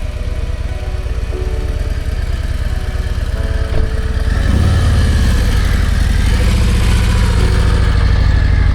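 Harley-Davidson motorcycle's V-twin engine running with a steady low beat, getting louder about halfway through as it is given more throttle.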